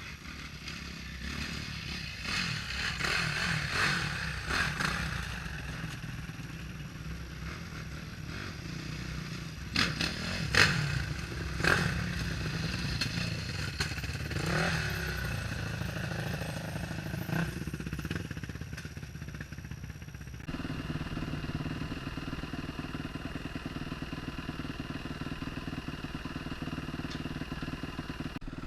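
Dirt bike engine running and revving over rough trail ground, with sharp clattering knocks about ten to twelve seconds in. About two-thirds of the way through the sound changes abruptly to a steadier, even engine note.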